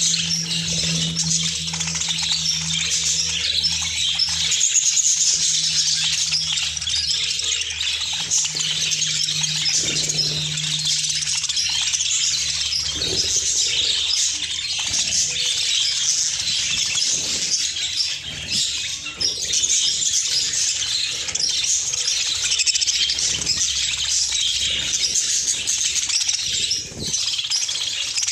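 A flock of budgerigars chattering and warbling continuously, with occasional wing flutters. A low steady hum runs underneath and stops about halfway through.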